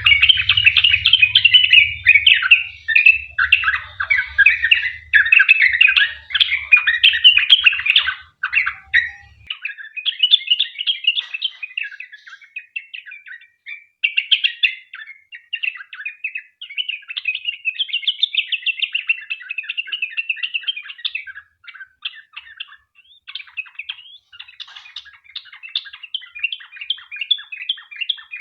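Yellow-vented bulbul (trucukan) singing a long, rapid run of chattering notes. The song is loud for the first eight seconds or so, then goes on fainter and in broken phrases with short gaps.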